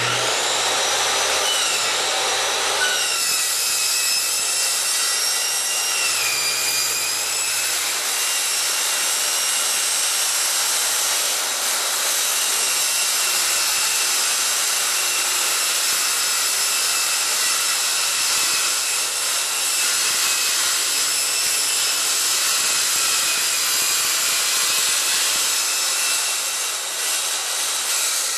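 Circular saw cutting through the steel skin of a raised-panel door: a loud, steady whine over a gritty rasp that starts abruptly. The whine drops in pitch about three and six seconds in as the blade takes load, and the sound fades near the end.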